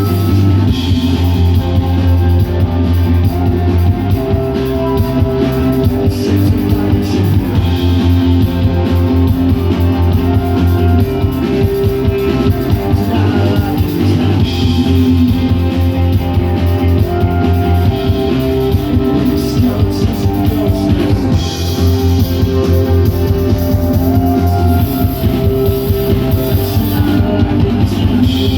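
Live rock band playing a song: guitars, bass and a drum kit, with a male singer's vocal over them.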